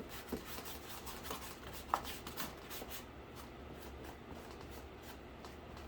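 Light handling noises: rustling with a string of small clicks and taps, the loudest just before two seconds in, thinning out after about three seconds.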